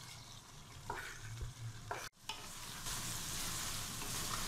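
Chicken and chickpeas in masala frying down (bhuna) on high heat in an aluminium pot, sizzling while a wooden spoon stirs and scrapes through them. About two seconds in the sound breaks off sharply at an edit and comes back as louder, steadier sizzling.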